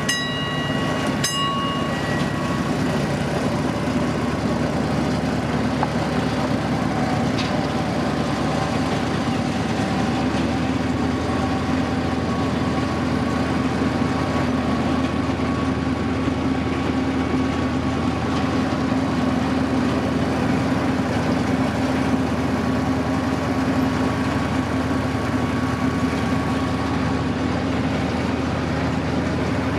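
Tourist train running steadily, heard from aboard: a constant engine drone and the rolling of wheels on rails, with a short metallic ring about a second in.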